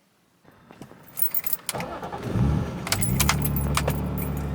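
Keys jangling and clicking, then a car engine starts about two seconds in and settles into a steady idle.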